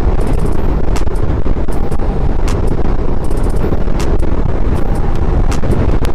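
Wind rushing over the microphone of a moving motorcycle, over the steady noise of the engine and road, with scattered sharp crackles from wind gusts.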